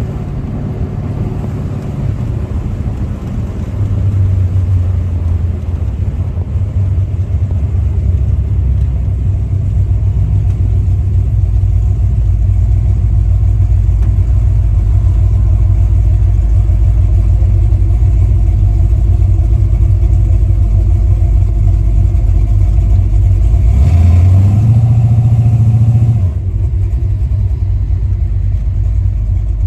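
V8 engine of a Chevy LUV pickup running steadily while the truck is driven. It gets louder about four seconds in, and its note rises for a couple of seconds near the end before settling back.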